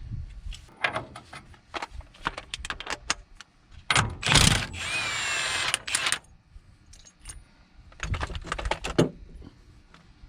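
Metal clinking and knocking of hand tools on drum-brake parts: a run of sharp clicks, then a power tool runs for about two seconds in the middle, then more clinks near the end.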